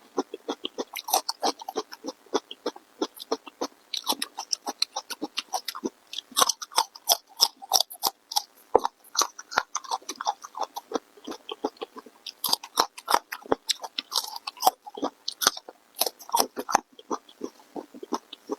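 A person chewing food close to the microphone: rapid, irregular mouth clicks and smacks.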